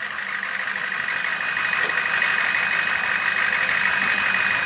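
A monster-truck Jeep's engine running at idle, with a steady high whine over it; a second, slightly higher whine comes in about two seconds in.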